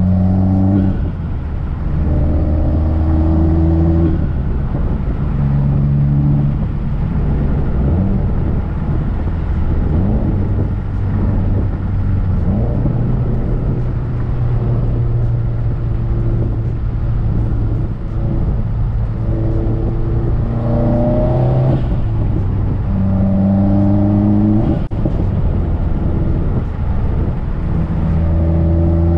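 Heavily modified turbocharged Subaru WRX flat-four engine pulling hard through the gears. Its pitch rises and drops back at each gear change, holds steady for several seconds in the middle, then climbs through two more quick pulls, with a sharp click about 25 seconds in.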